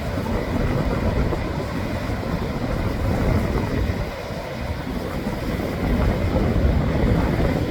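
Steady low rumble of noise that swells and fades slightly, with no distinct events.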